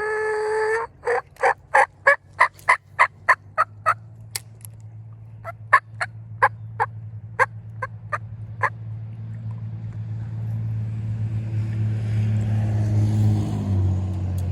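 A bird calling, fowl-like: one held note, then a long series of about twenty short calls that start fast, spread out and stop about nine seconds in. A low engine drone grows louder through the second half.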